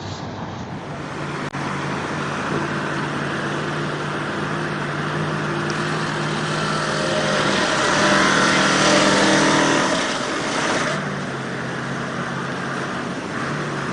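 A heavy truck's engine running steadily, then revving harder from about six seconds in, louder and higher in pitch, before easing back to a lower, steadier note near eleven seconds.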